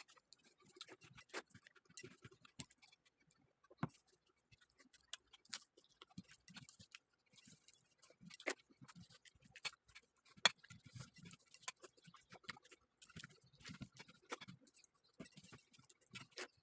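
Faint, irregular clicks and soft taps of eating by hand from a plate of rice and jackfruit curry.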